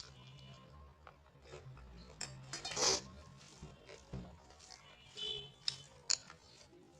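Close-miked eating sounds: chewing a mouthful of rice and curry, with wet mouth smacks and clicks. The loudest is a burst about three seconds in, and two sharper clicks come near the end.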